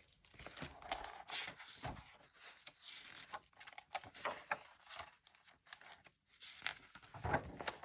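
Picture book being handled, its pages turning with irregular paper rustling and crinkling.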